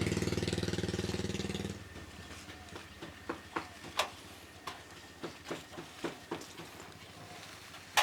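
A small engine running with a fast, rattling beat that cuts off abruptly about two seconds in, followed by a scatter of light clicks and knocks.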